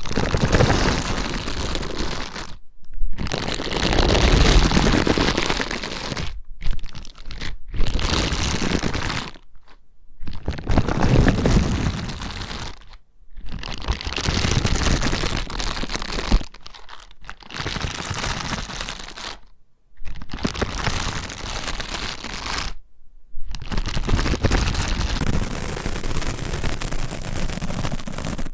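ASMR trigger sounds close on a stereo microphone: repeated bursts of dense crackling and crunching, each lasting a couple of seconds, with short pauses between them.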